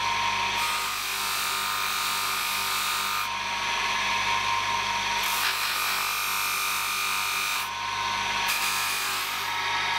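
A small electric power tool running steadily and working against the workpiece, with a constant motor hum under a grinding hiss. The hiss drops away for about two seconds a little after 3 s in, and again briefly near 8 s, as the tool eases off the work.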